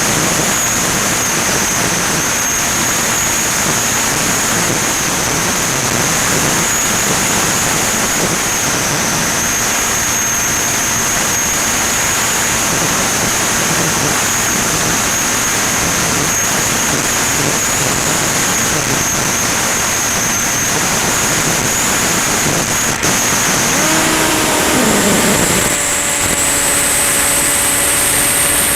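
Volantex Ranger EX FPV plane in flight: its electric motor and propeller give a steady high whine over heavy rushing air noise. Near the end the whine steps up in pitch and keeps rising slowly as the throttle changes, and lower droning tones join it.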